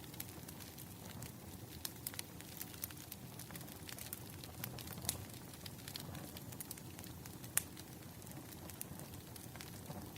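Burning firewood crackling: an irregular stream of sharp pops and snaps over a low hiss, with one louder pop about seven and a half seconds in.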